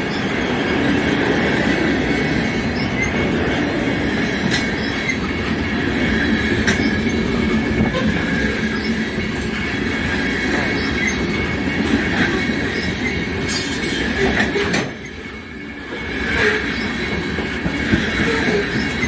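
Canadian National freight train cars rolling past, steel wheels on rail giving a steady squeal with occasional clacks at the rail joints. The noise drops briefly about fifteen seconds in, then picks up again.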